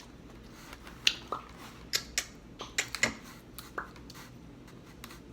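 Close-miked eating of crab and seafood: a quick run of sharp cracks, clicks and smacks from shells being broken and food chewed, mostly between about one and four seconds in.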